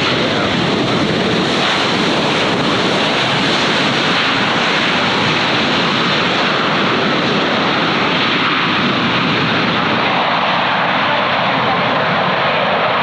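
Jet airliner engines running, a loud, steady rush of noise, with a thin steady whine coming in near the end.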